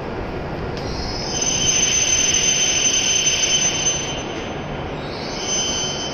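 E7 series Shinkansen train braking to a stop, rumbling steadily. A high-pitched brake squeal starts about a second in and lasts about three seconds, then comes back briefly near the end.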